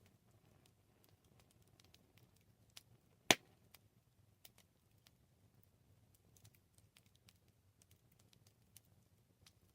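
Campfire of burning wood crackling: scattered faint snaps and ticks, with one loud pop about a third of the way in, over a low steady rumble of the fire.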